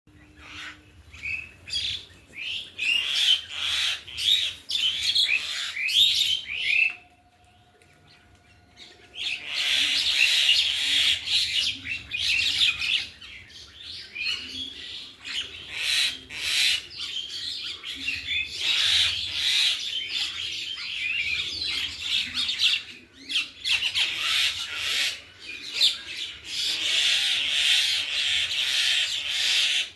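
Many small birds chirping and chattering at once in a dense, overlapping chorus of high calls. The chorus breaks off for about two seconds roughly a quarter of the way in, then resumes.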